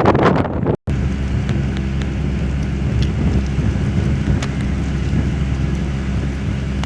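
Wind buffeting the microphone, then, after a short break under a second in, a steady low engine hum from a running vehicle.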